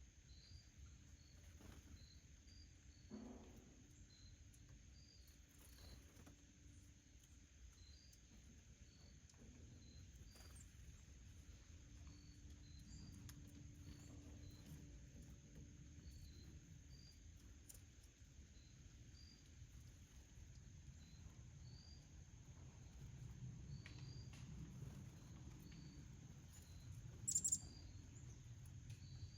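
Near silence: faint high chirps repeating evenly about once a second over a low hum, with one brief sharp sound near the end.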